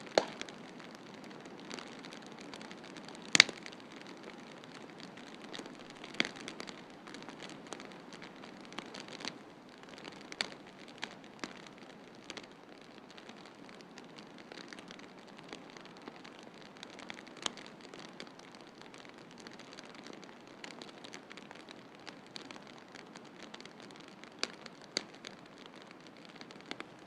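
Wood fire crackling in a fireplace, with scattered sharp pops at irregular intervals, the loudest about three seconds in, over a steady hiss of snowstorm wind.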